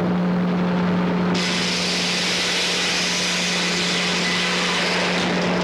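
Frick 00 circular sawmill running with a steady hum, its blade cutting through a log for about four seconds: the cut starts abruptly about a second in and stops just before the end.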